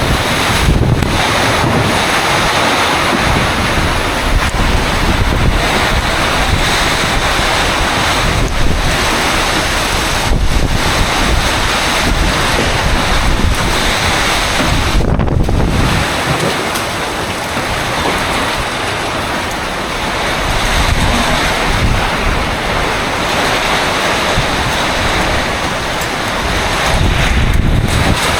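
Tropical storm wind and heavy rain making a loud, steady rushing noise, with gusts buffeting the microphone.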